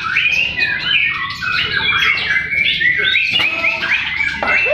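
Several white-rumped shamas singing at once in contest: a loud, dense, unbroken stream of overlapping whistled phrases and chirps.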